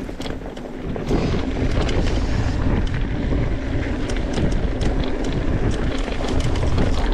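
Wind rushing over the microphone as a mountain bike rolls along a dirt trail, with tyre noise and scattered clicks and rattles from the bike. The sound grows louder about a second in.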